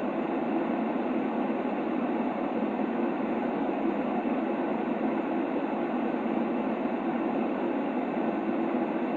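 Continuous white noise for a baby's sleep: an even, unchanging rush, strongest in the low middle range, with little high hiss.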